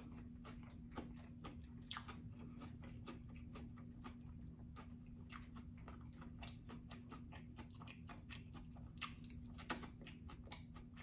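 Faint close-up chewing of sushi, with many small wet mouth clicks scattered throughout and a couple of sharper clicks near the end.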